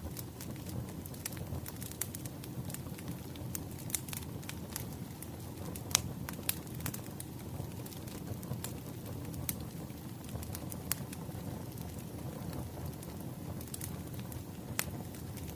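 Wood fire burning, firewood crackling and popping irregularly over a steady low rush of flames, with one sharper pop about six seconds in.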